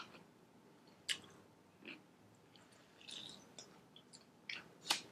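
A person chewing crispy fried chicken: faint, scattered crunches and mouth clicks about a second apart, the loudest near the end.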